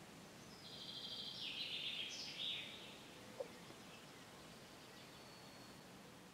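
A songbird singing a short high chirping phrase of about two seconds, over faint outdoor background, followed a little later by a single short sharp tick.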